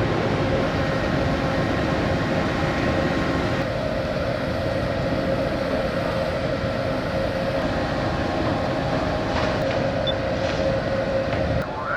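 Steady machinery drone aboard a large car ferry, with a held hum running through it.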